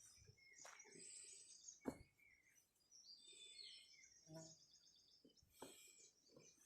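Faint birds chirping and twittering in short high notes, with a few sharp clicks between them.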